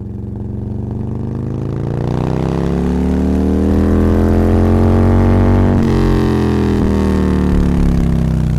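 A motor vehicle's engine running loudly, its pitch climbing steadily for about five seconds and then falling away again.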